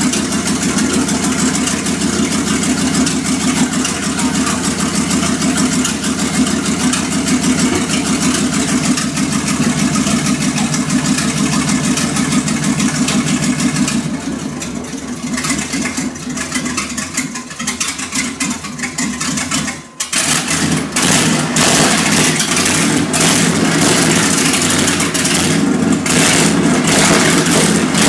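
1995 Chevrolet K3500 dually's 454 big-block V8 running loud and steady. About halfway through it drops quieter and uneven, dips sharply for a moment, then comes back up loud.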